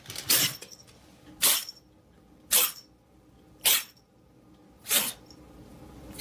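An animal giving short, sharp breathy bursts about once a second, six in a row.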